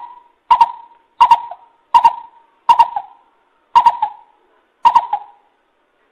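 Coucal (bubut) calling: a series of seven like notes, each with a doubled start, repeated at a little under a second apart and stopping about five seconds in.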